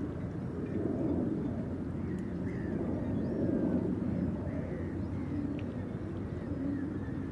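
Birds giving short, faint calls several times over a steady low rumble.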